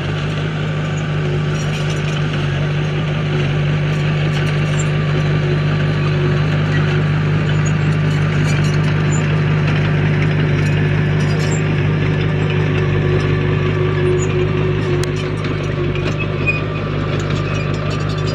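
Diesel engine of a heavy earthmoving machine running steadily at constant speed, with scattered faint clicks and rattles.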